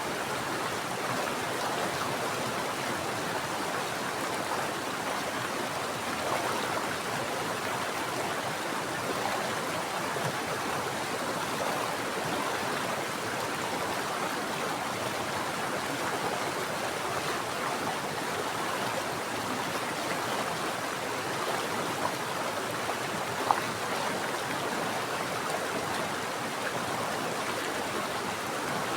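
Mountain stream water flowing and rushing steadily over rocks, with a single brief splash or click near the end.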